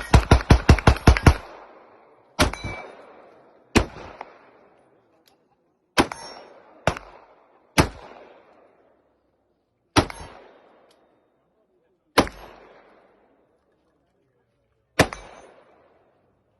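Gunfire at a shooting range: a rapid string of about nine shots in the first second and a half, then eight single shots spaced one to three seconds apart, each followed by a short echo.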